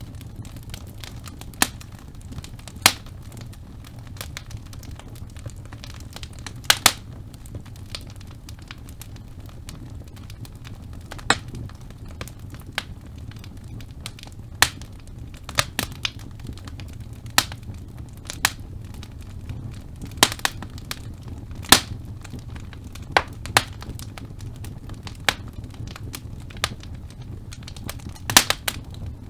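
Wood fire burning in a fireplace: a steady low rumble of flames with sharp, irregular pops and crackles from the burning logs, a quick cluster of pops near the end.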